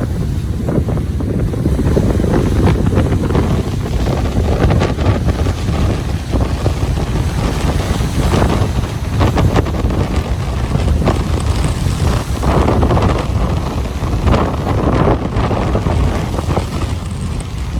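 Wind buffeting the microphone in irregular gusts, a heavy low rumble over the wash of ocean waves on a beach.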